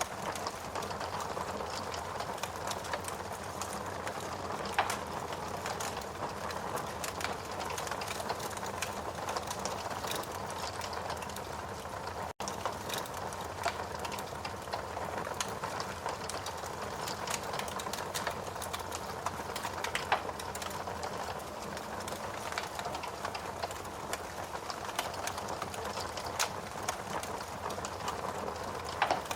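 Wood fire crackling steadily: a dense run of small ticks over a soft hiss, with a few louder pops now and then. The sound cuts out for an instant about twelve seconds in.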